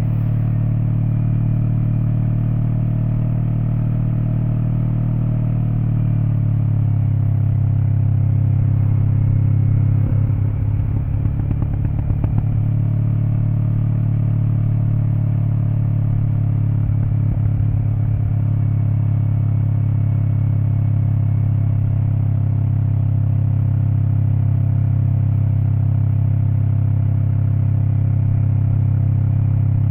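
Kawasaki Eliminator SE's 398 cc parallel-twin engine running through a BEAMS aftermarket header and muffler while riding, heard from the rear of the bike. The engine note drops slightly about six seconds in and then holds steady, with short rattly patches about ten to twelve and seventeen seconds in.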